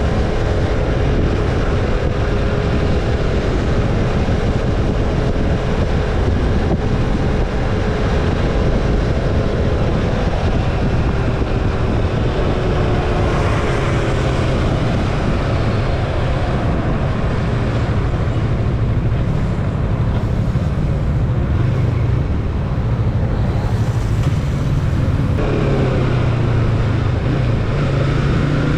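Yamaha MT-25's parallel-twin engine running through an Akrapovic slip-on exhaust with silencer while riding, its pitch holding, then rising and dropping as it accelerates and eases off, and climbing again near the end. Wind noise on the microphone runs underneath.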